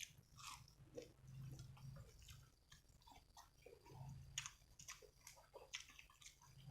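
Close-miked eating: a person biting and chewing food, with irregular wet mouth clicks and smacks.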